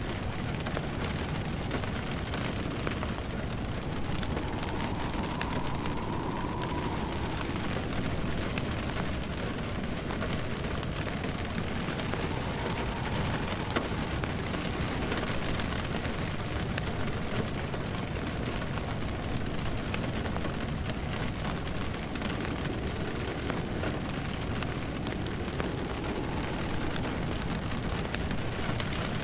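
Steady rain on a surface, mixed with the scattered crackle of a wood fire. A faint rising-and-falling whistle comes through about five seconds in and again around twelve seconds.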